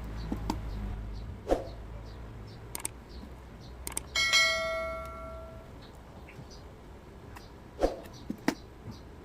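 Small clicks and knocks of electronic kit parts and tools being handled on a work surface, with one sharp metallic strike about four seconds in that rings briefly with a bell-like tone.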